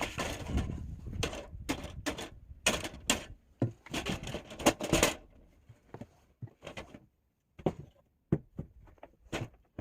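Snow shovel scraping and crunching into wet, heavy snow, a quick run of strokes in the first half, then a few sparse, lighter scrapes and taps.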